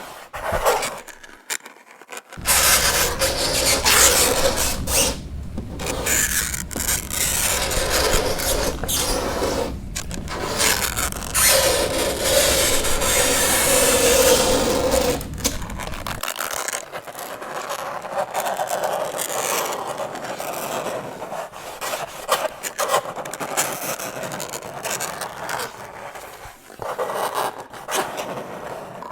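Fingernails scraping across a chalkboard in repeated strokes, a harsh scratching rasp. It is fuller and louder for the first half, with a squeal shortly before midway, then turns into lighter, broken scratches.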